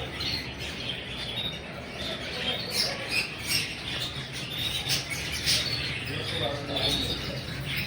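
Caged birds chirping and squawking in short scattered calls over a steady low background murmur of a busy market.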